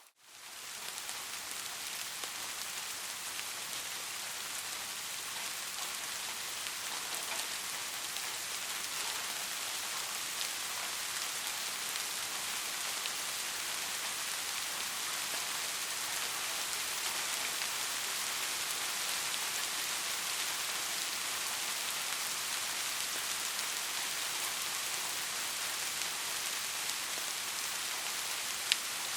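Steady rain falling, an even hiss dense with small drop impacts. It fades up from a brief dropout at the very start, and a single sharp click sounds near the end.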